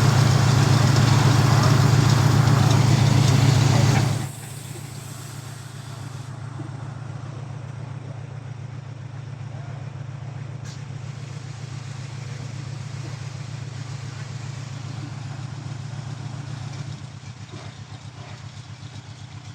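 Mitsubishi bus engine running steadily under a loud rushing noise that cuts off suddenly about four seconds in, leaving a quieter, steady low engine hum.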